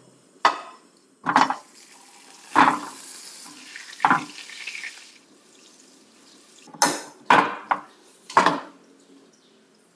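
Kitchen utensils and bowls clinking and knocking during baking prep: about eight separate knocks, with a softer noisy stretch in the middle.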